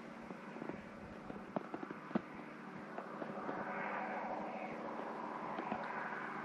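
Wood fire crackling and popping in a wood furnace's firebox over a steady low hum, with a rushing noise swelling up from about three seconds in.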